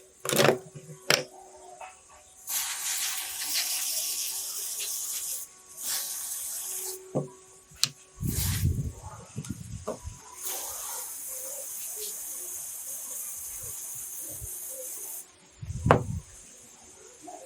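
Two long bursts of spraying hiss, each a few seconds long, with knocks and handling thumps in between; the loudest thump comes near the end.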